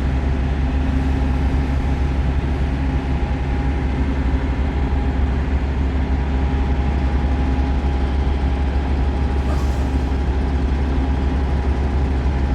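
Semi-truck engine and road noise droning steadily, deep and even, with a faint steady whine above it.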